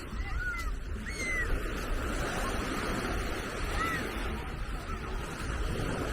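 Waves washing on a sandy beach, with low wind rumble on the microphone and a few short bird calls: several within the first second or so and one more near four seconds in.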